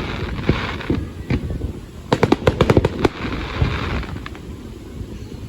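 Fireworks going off: scattered sharp bangs, then a quick run of crackling reports about two seconds in, with hissing between the bursts.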